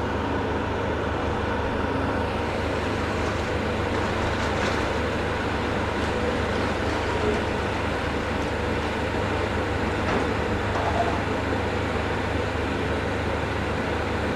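Diesel engine of a long-reach demolition excavator running steadily, a constant low drone.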